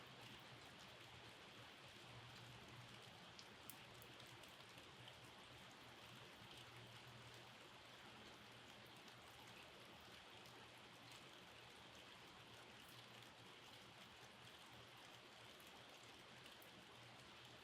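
Faint steady rain, with scattered individual drops ticking through it and a low hum underneath.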